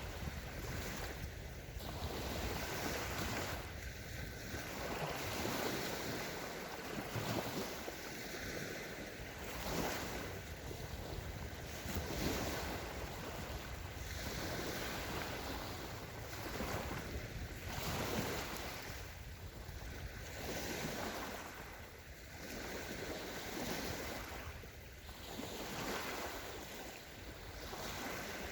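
Small sea waves washing onto a sandy shore, surging and fading every two to three seconds, over a steady low rumble of wind on the microphone.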